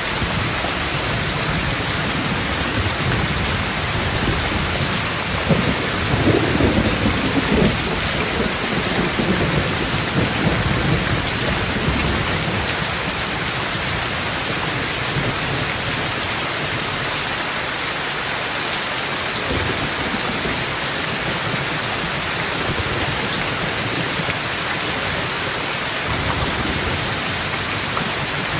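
Steady rain falling throughout, with a thunderclap about five seconds in that cracks and then rumbles on for several seconds before fading back under the rain.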